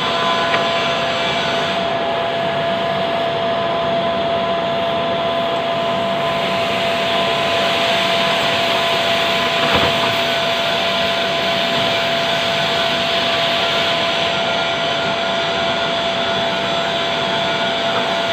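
Lathe running steadily: a constant motor whine over a continuous rushing noise, with a brief knock about ten seconds in.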